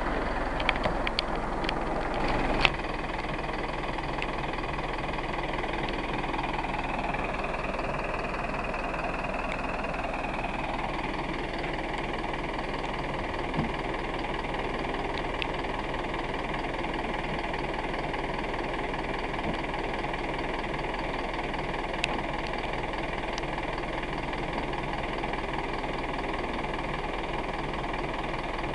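A recovery truck's engine running steadily, with a few sharp clicks in the first three seconds.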